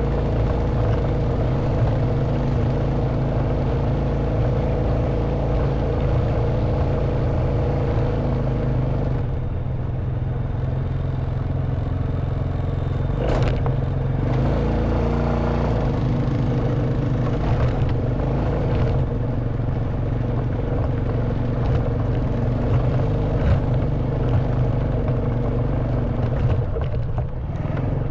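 Honda Wave 110cc single-cylinder four-stroke engine running steadily at low speed, its note changing about nine seconds in. A single sharp knock about thirteen seconds in.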